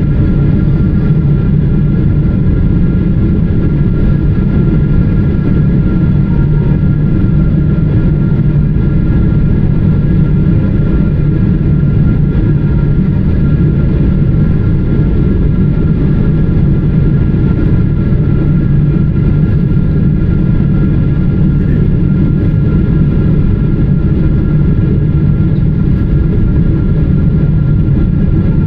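Steady cabin roar inside a Boeing 777-300ER on descent toward landing: a loud, even low rumble of airflow and the GE90 engines, with a few faint steady tones above it.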